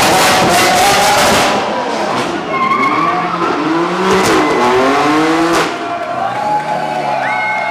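Sports car doing a burnout: a loud hiss of spinning, squealing tyres for about the first second and a half. Then the engine note climbs in several rising sweeps as the car pulls away, and it eases off near the end.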